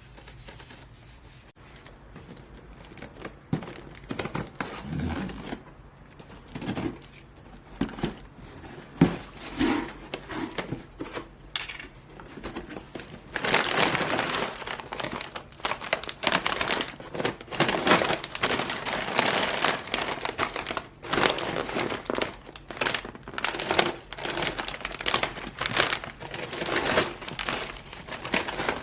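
Wrapping crinkling and rustling as it is handled, with some tearing, in irregular bursts that get denser and louder about halfway through.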